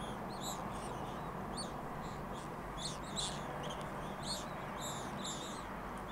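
A flock of swifts calling, many short, high, screechy calls overlapping one another, over a steady background hum.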